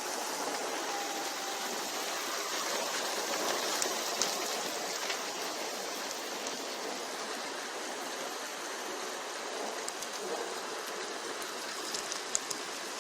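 Steady heavy rain falling, with a few sharp ticks of drops landing close by, more of them near the end.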